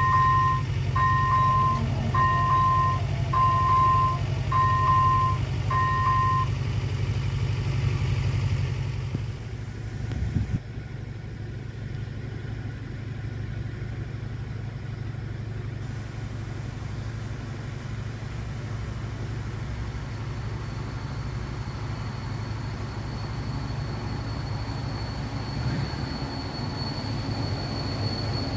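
A steady low engine rumble with a run of six evenly spaced electronic beeps, about one a second, in the first six seconds. The rumble drops in level after about ten seconds, and a thin high whine comes in near twenty seconds.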